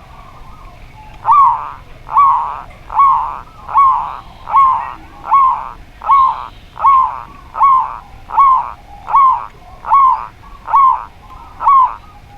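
A dove cooing: a long series of about fourteen evenly spaced notes, roughly one every 0.8 s, starting about a second in. Each note rises and then falls in pitch.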